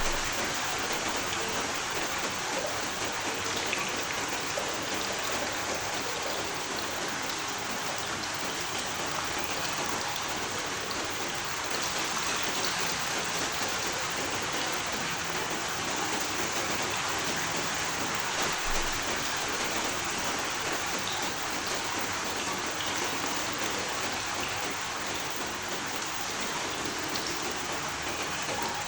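Steady rain falling, an even wash of patter with scattered individual drops hitting a surface.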